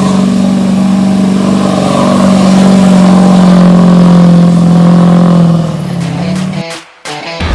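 Duramax 6.6-litre V8 turbo-diesel truck engine revved up and held at high revs with a steady pitch, easing off about five and a half seconds in. Near the end it gives way to short cut-up sounds as music starts.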